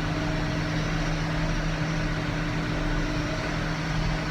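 Tractor engine running at a steady speed under load while pulling a round baler, a constant hum with mechanical noise.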